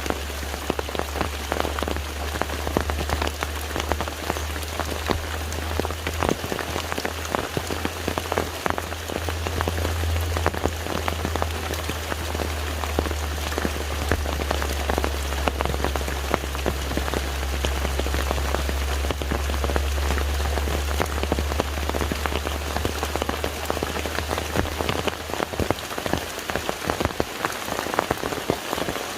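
Steady rain falling on a lake's surface, a dense patter of many individual drops. A low steady rumble runs underneath and stops near the end.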